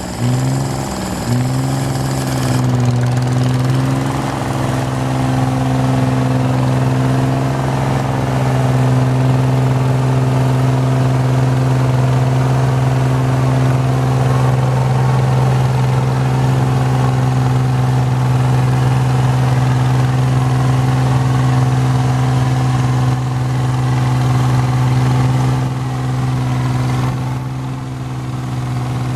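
Garden tractor engine revving up at the start, then running at a steady high speed with one even tone; it eases off briefly near the end.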